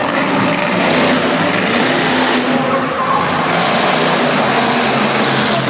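A monster truck's engine running loudly and revving, its pitch rising and falling.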